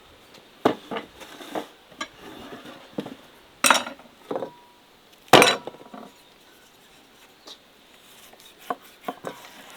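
Kitchenware being handled: dishes and utensils clinking and knocking at uneven intervals. Two louder clanks come about four and five and a half seconds in, each followed by a brief metallic ring, and a few lighter taps come near the end.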